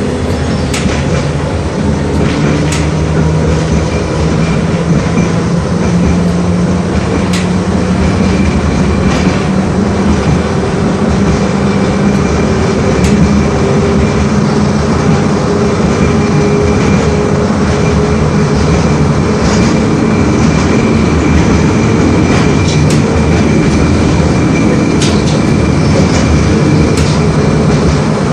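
LVS-86K tram running between stops, heard from inside the car: a steady rumble of wheels on rails with a low motor hum that drifts slightly in pitch and occasional sharp clicks.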